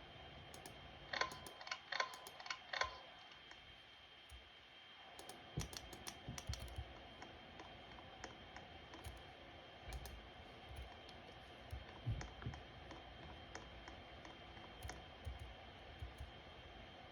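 Ceiling fan running with a faint steady whine. Four sharp, ringing clicks come a little over a second in, and lighter clicks and knocks are scattered through the rest.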